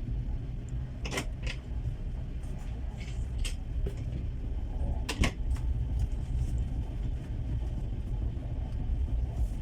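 Steady low rumble of a moving passenger train heard inside a platzkart sleeping carriage, with a few sharp knocks about a second in, at three and a half seconds and around five seconds.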